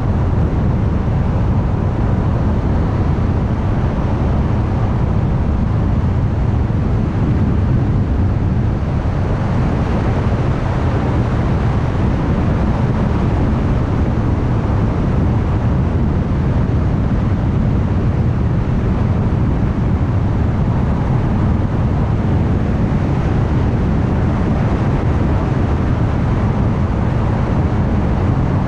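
Steady road noise of a car driving at highway speed: low tyre and engine drone, with the hiss growing a little louder about nine seconds in.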